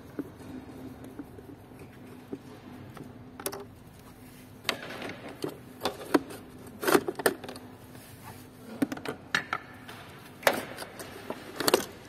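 Irregular knocks, clicks and clatter as the heater blower motor assembly is worked free of its mounts and handled by hand. The loudest knocks come in the second half.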